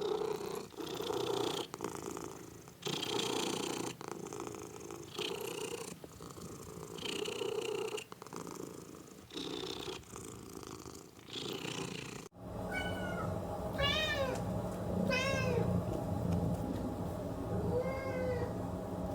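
A cat purring in steady swells, each breath in and out heard as a separate burst of purr. About two-thirds of the way through it cuts off abruptly, and a kitten meows about four times, short high calls rising and falling in pitch.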